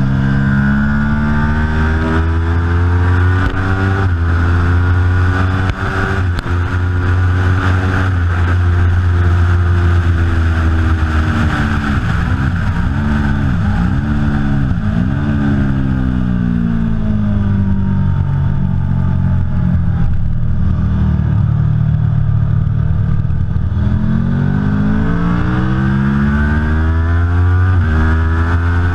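Aprilia Tuono V4 Factory's V4 engine running hard on track, its pitch climbing and dropping with throttle and gear changes. Midway the pitch dips and recovers three times in quick succession, then it falls away and climbs again near the end.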